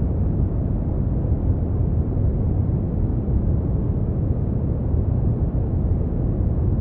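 Brown noise: a steady, deep rumbling hiss with most of its weight in the bass and no treble, unchanging throughout.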